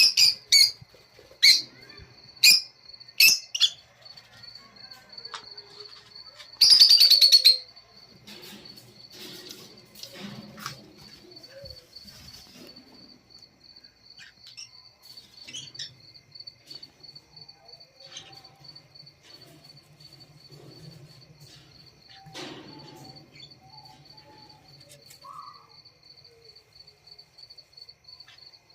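Lovebirds calling with shrill chirps: a quick run of loud calls in the first few seconds and a longer burst of calls about seven seconds in, then softer scattered chirps. A faint steady high-pitched whine sits beneath the calls.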